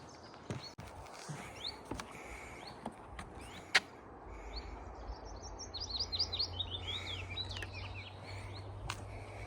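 Small songbirds chirping, with a quick run of falling notes in the middle. A single sharp click sounds about four seconds in, and a low rumble sets in at about the same time.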